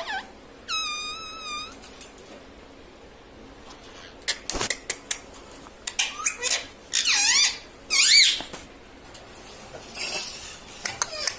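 Parrot calling: one held, wavering squawk near the start, then a click, a run of quick warbling chirps, and a harsh screech near the end.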